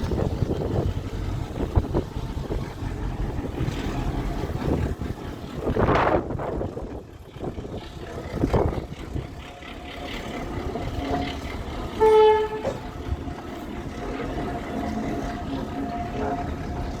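A train's engine running with a low rumble, and a short, loud toot about twelve seconds in.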